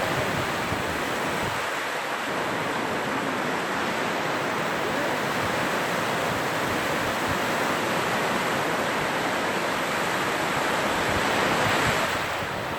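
Sea surf: a steady rush of waves washing onto the shore, swelling a little louder near the end before easing off.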